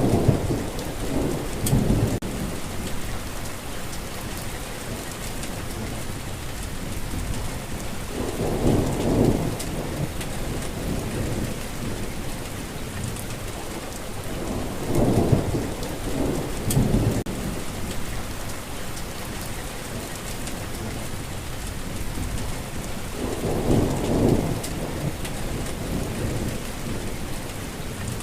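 Steady rain falling, a constant hiss, with four low rolls of thunder rumbling through it: near the start, about nine seconds in, around a quarter of a minute in, and again near the end.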